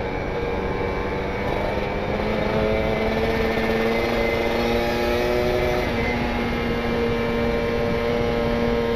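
Kawasaki Ninja RR 150cc two-stroke single, carburettor jetted rich, running through an R9 aftermarket exhaust on a light, nearly closed throttle down a steep hill. The engine note rises slightly in the first few seconds and then holds steady, with wind rush over it.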